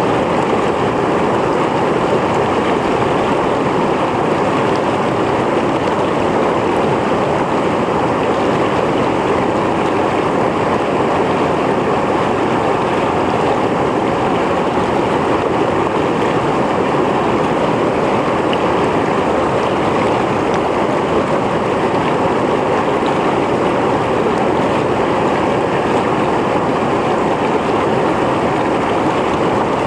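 Mountain stream flowing over rocks, a steady rushing and splashing of water that holds the same level throughout.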